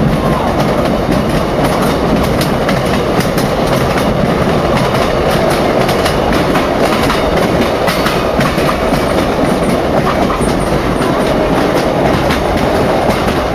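Steady rumble of a moving passenger train heard from inside the coach, with scattered clicking from the wheels passing over the rail joints.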